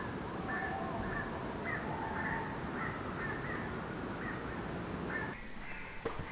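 Birds calling in a rapid run of short, harsh notes, several a second, over a steady low background rumble. About five seconds in, the sound changes abruptly to a different set of higher calls.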